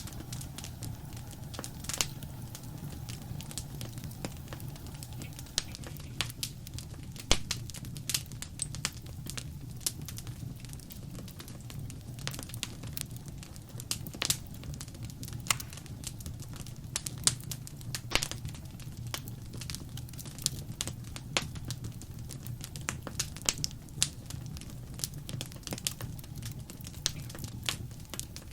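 Wood fire in a fireplace crackling: a steady low rumble of flame under irregular sharp pops and snaps, several a second, a few much louder than the rest.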